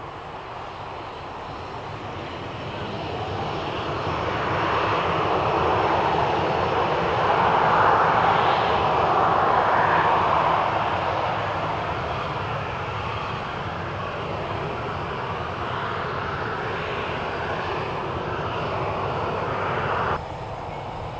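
Noise of a passing vehicle that swells to a peak about eight seconds in and then fades, and cuts off suddenly near the end.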